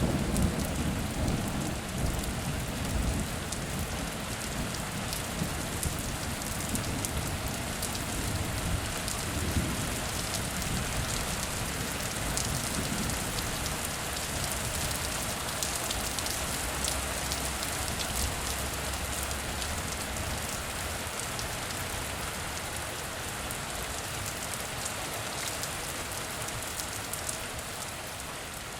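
Heavy rain falling steadily, a dense hiss with fine drop ticks. A low rumble of thunder dies away in the first couple of seconds, and the rain eases slightly toward the end.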